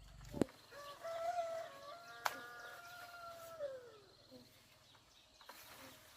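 A rooster crowing: one long crow of about three seconds that holds its pitch and then falls away at the end. Two sharp knocks are heard, one just before the crow and one in the middle of it.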